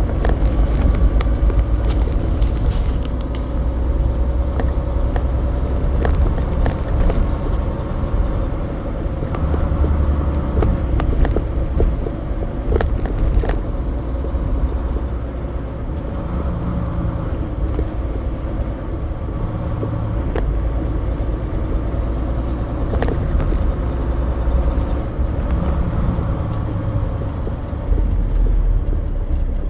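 Semi truck driving: a steady diesel engine and road rumble, with scattered sharp rattles and knocks.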